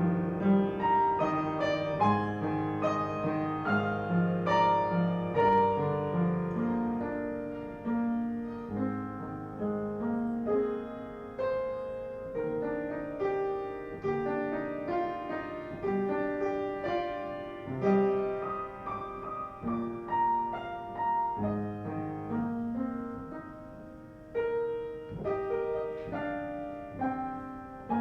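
Piano playing a slow, gentle piece, notes and chords struck one after another and left to fade.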